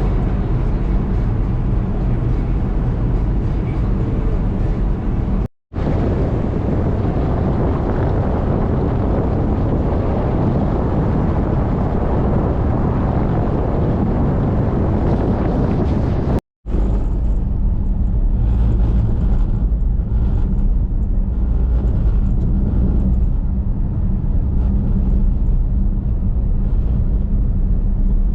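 A car driving: steady engine hum under tyre and road noise, in three stretches broken by abrupt cuts about five and a half seconds and sixteen and a half seconds in.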